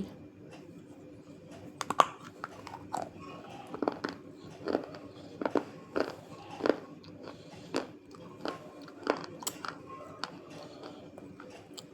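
A person biting and chewing crunchy pieces of dry clay close to the microphone. The sharp crunches start about two seconds in and come roughly every half-second to second.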